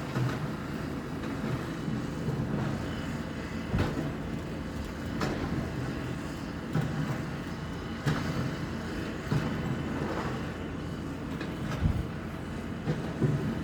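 Demolition machinery running with a steady low rumble, with irregular clanks and knocks every second or few.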